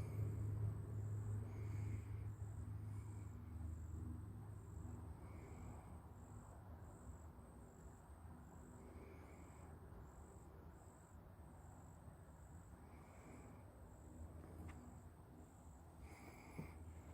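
An insect chirping steadily, about two short chirps a second, with a brief higher-pitched call from another animal every few seconds over a low steady rumble.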